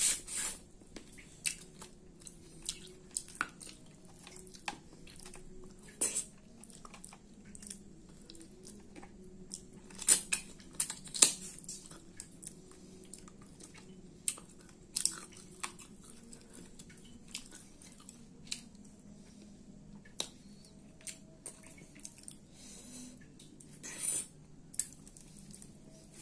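Close-up chewing and wet mouth smacks of someone eating rice and curry by hand, in irregular bursts, with louder clusters about ten seconds in and again near the end.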